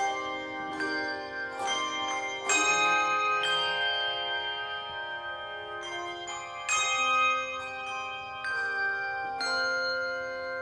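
Handbell choir playing a slow passage: chords struck one after another, each ringing on for several seconds so the notes overlap.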